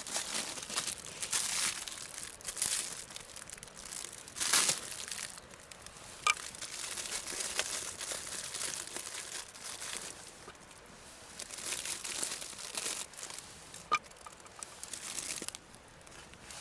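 Crinkling and rustling of something crumpled or torn by hand, such as packaging, in irregular bursts, with a couple of small sharp clicks.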